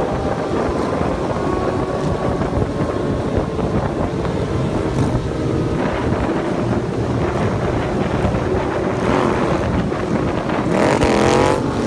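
Motorcycle engine running under way, with wind buffeting the helmet microphone. Near the end the engine revs sharply, its pitch sweeping up, and this is the loudest moment.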